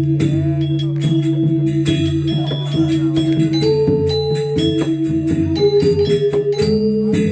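Balinese gamelan music: metal-keyed instruments hold ringing, pulsing tones that change pitch every second or so, over a steady low tone, with frequent sharp strikes.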